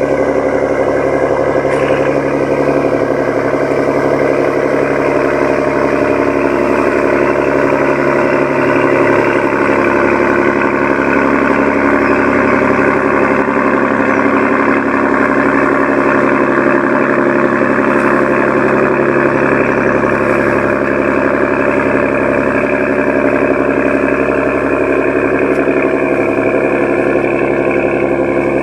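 Scania 477 hp marine diesel engine of a river passenger-cargo boat running steadily with a raw, deep roar.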